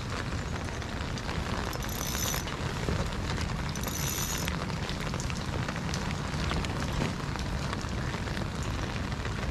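Steady rain pattering on water and on a rain jacket: a dense crackle of drops, with two brief high-pitched whirs about two and four seconds in.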